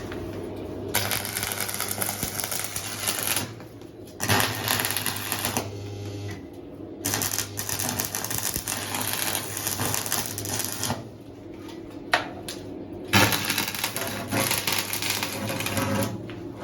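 Electric arc welding tacking the steel cage frame in place: a rapid crackle in four runs of a few seconds each, with short pauses between, over a steady low hum.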